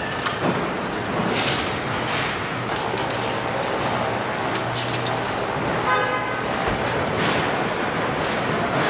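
Truck assembly plant floor noise: a steady mechanical din with short hissing bursts several times and a brief beep or horn toot about six seconds in.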